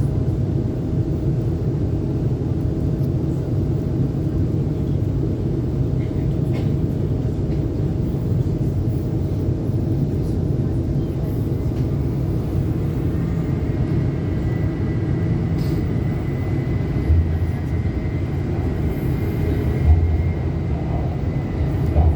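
Guangzhou Metro Line 8 train running between stations, heard inside the car as a steady low rumble. A faint high whine joins about halfway, and a few low thumps come near the end.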